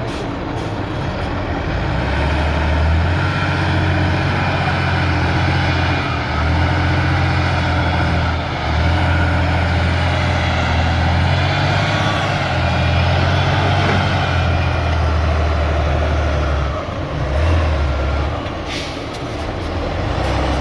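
Heavy truck's engine working hard under load off-road, revving up and easing off in repeated surges of a few seconds each. There is a short hiss near the end.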